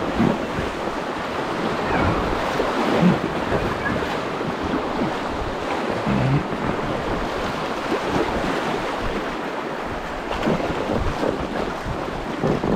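Shallow river water rushing and splashing close around a floating packraft, a steady wash with small irregular splashes and gurgles.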